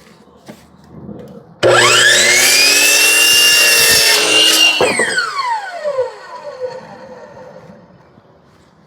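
Electric saw cutting a board to length: the motor starts with a rising whine, runs steadily for about three seconds, then is switched off and winds down with a long falling whine.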